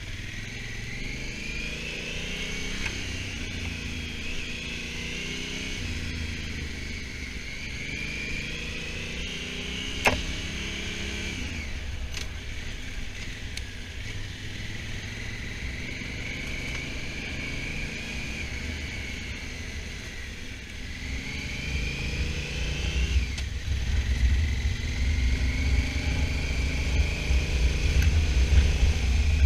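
Honda Africa Twin motorcycle engine heard on board while riding, its pitch climbing and dropping again and again as it accelerates and shifts. Wind rumble on the microphone grows louder in the last several seconds, and there is a single sharp click about ten seconds in.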